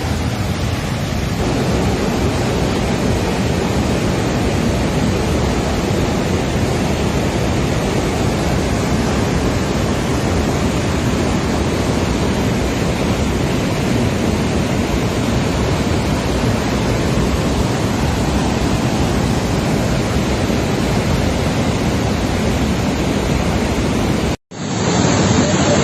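Swollen flash-flood river, a loud, steady rush of water. Near the end it cuts off abruptly, and a different recording of rushing water begins.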